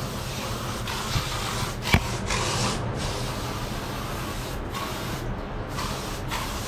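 Typhoon wind and rain on an old wooden house: a steady rushing noise that swells and eases, with a light knock about a second in and a sharper knock about two seconds in.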